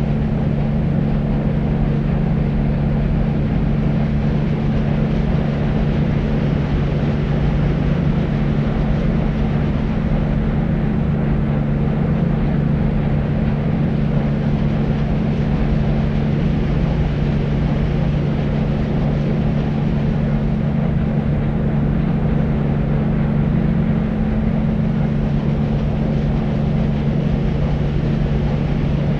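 Deep white noise, a steady, unchanging rushing weighted toward the low end, with a low hum running through it and little hiss on top.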